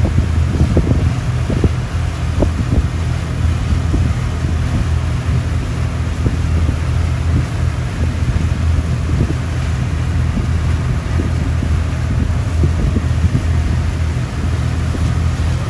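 Cruise boat's engine running steadily with a low hum, while wind buffets the microphone.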